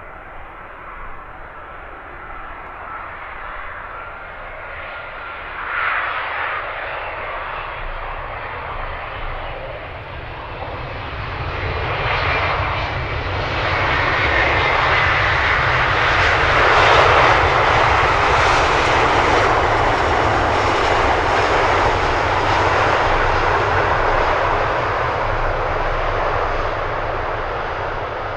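Jet airliner's engines growing louder as it passes close by, a broad rush with a thin high whine on top, peaking a little past halfway and staying loud.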